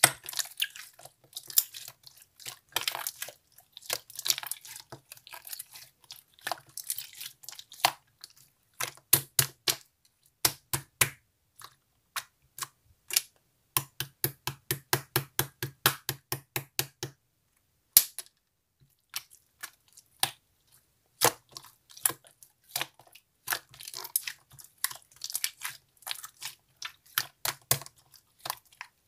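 Clear slime being pressed and squeezed by hand, giving sharp wet clicks and pops. A fast, even run of clicks comes about halfway through, then the clicks thin out for a few seconds before picking up again.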